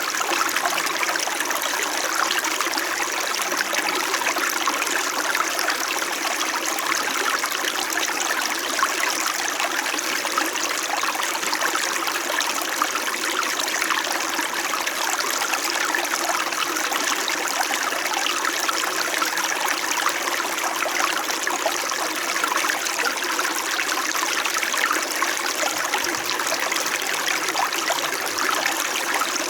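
Small mountain stream flowing gently, a steady, even babble of running water.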